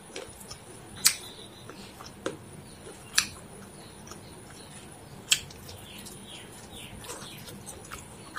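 Close-up eating sounds of someone chewing chicken biryani by hand: a few sharp, wet mouth clicks about a second or two apart, over a quiet steady background.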